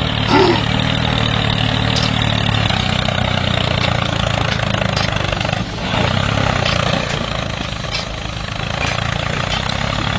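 Engine running steadily at idle, a low even hum with hiss above it, with a brief dip about six seconds in.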